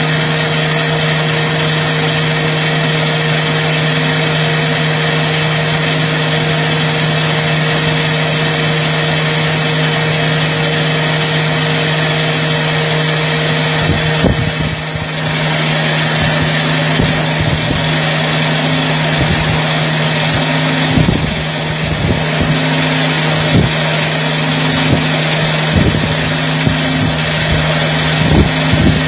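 Heavy CNC roll-turning lathe running with a loud, steady machine hum. Irregular low knocks and rumbles join in during the second half.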